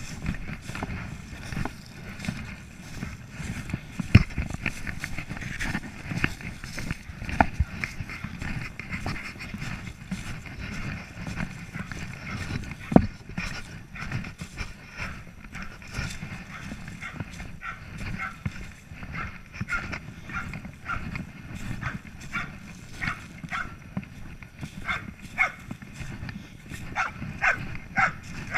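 Belgian Malinois barking in a steady run of short barks, about two a second, from around the middle on and growing louder toward the end, the bark alert of a search-and-rescue dog. Low rumbling noise and a few sharp knocks run underneath.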